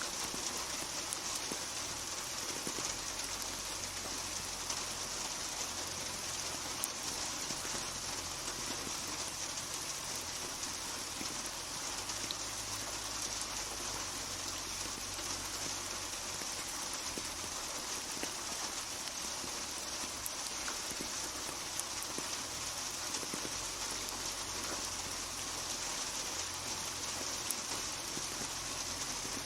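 Steady rainfall, an even hiss of rain with scattered individual drops ticking on surfaces.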